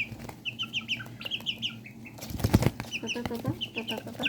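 Young chicks peeping in quick, short, slightly falling chirps, several a second. About two and a half seconds in comes a brief, loud flutter of wings.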